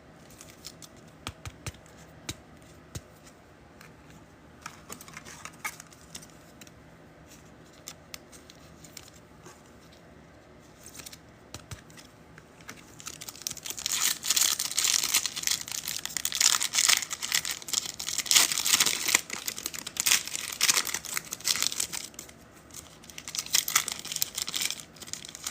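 Foil trading-card pack wrappers being torn open and crinkled, a dense run of tearing and crinkling through the second half with a shorter burst near the end. Before that, only scattered light clicks and taps.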